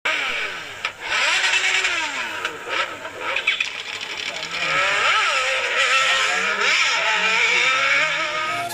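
Motorcycle and traffic engines revving, several engine pitches rising and falling over one another.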